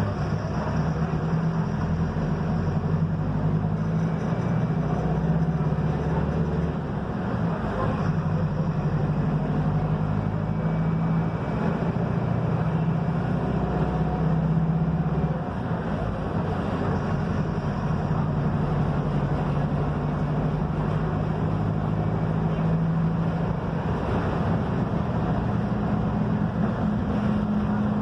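Diesel engine of a Mercedes-Benz OF-1721 bus running under way, with road rumble, heard from inside the cabin. The engine note shifts pitch several times, with a brief dip in level about halfway through.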